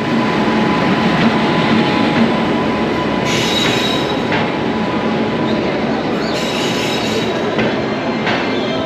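Indian passenger train running on the rails: a loud, steady rumble of wheels and carriages, with higher, shriller stretches about three seconds in and again around six to seven seconds.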